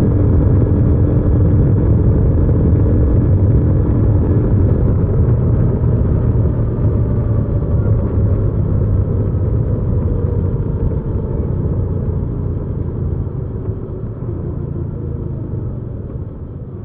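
Hyosung GV300S Aquila 300's V-twin engine running on the road. Its note slowly falls and the sound gets gradually quieter over the second half as the bike eases off.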